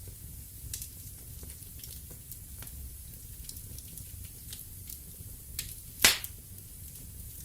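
Wood fire in a fireplace crackling, with scattered small snaps and one loud pop about six seconds in, over a low steady rumble.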